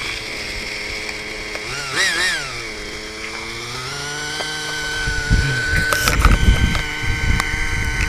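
Small engine of a radio-controlled model aircraft running with a buzzing note. Its pitch wavers about two seconds in, dips, then climbs and holds a steady, higher whine from about four seconds. Low rumbling buffets come in over the second half.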